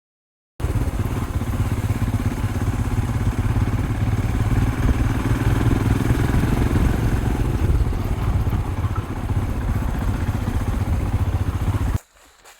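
Motorcycle running as it is ridden, a loud steady rumble that starts suddenly just after the beginning and cuts off abruptly near the end.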